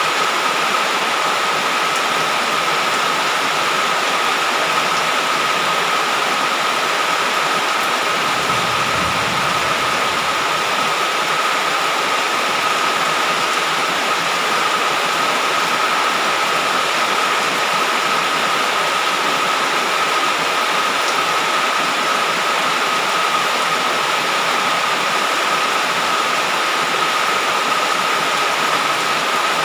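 Heavy rain falling as a steady, even hiss, with a thin steady high tone running through it and a brief low rumble about eight seconds in.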